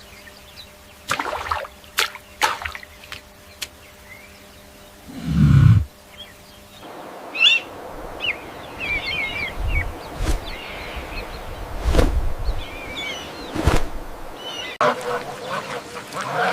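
Small birds chirping in quick high notes, with a few low thumps among them. Before that comes a faint hum, a few clicks and one short, loud low sound about five seconds in.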